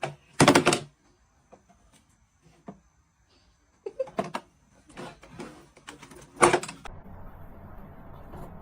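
Irregular clicks and knocks, with a loud knock about half a second in and another about two-thirds of the way through. A steady low background hiss follows near the end.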